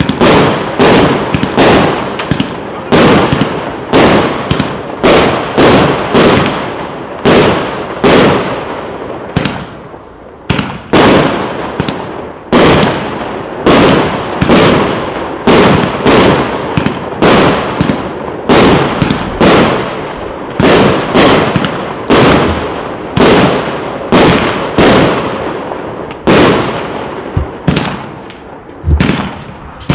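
Klasek C304MK 'King' 304-shot fireworks cake with 1.2-inch tubes firing shot after shot, about one to two loud bangs a second. Each bang cuts in sharply and dies away over a fraction of a second, with a short lull about ten seconds in.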